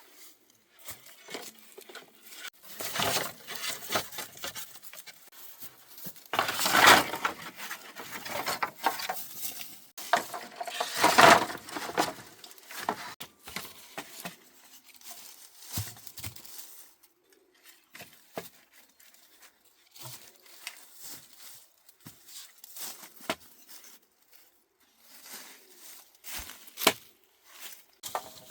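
Rustling, tearing and crinkling of leaves or branches being handled, with scattered light knocks. There are two longer, louder rustles about seven and eleven seconds in.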